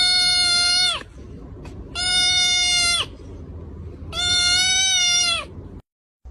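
A cat giving three long, flat-pitched meows about two seconds apart, each held for about a second and dipping slightly in pitch as it stops.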